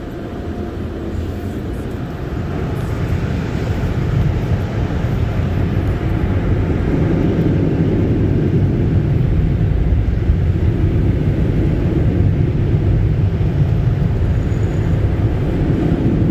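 Automatic car wash machinery heard from inside the car: a steady low rumble that builds over the first few seconds, then holds.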